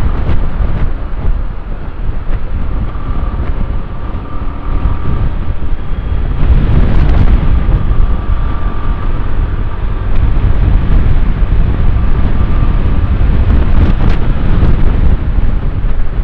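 A motorcycle running at road speed with wind buffeting the microphone, a steady rush with a faint whine. It gets louder about six seconds in.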